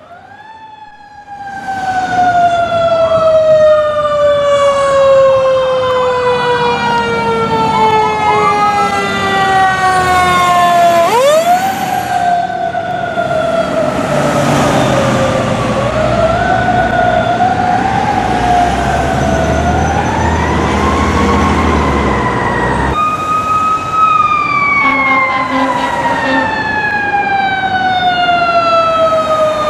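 Fire truck siren wailing, rising quickly and then falling slowly in pitch over many seconds, wound up again several times. A heavy truck engine rumbles underneath through the middle.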